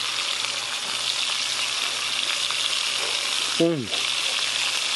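Floured venison pieces frying in oil in a cast-iron skillet: a steady sizzle. About three and a half seconds in, a man makes a short vocal sound that falls in pitch.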